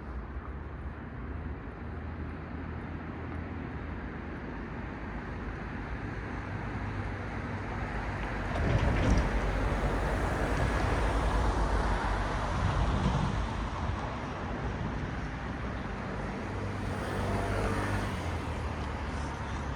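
Road traffic: cars passing on a road with a steady hum of tyres and engines. One vehicle goes by louder from about eight seconds in, with a smaller swell near the end.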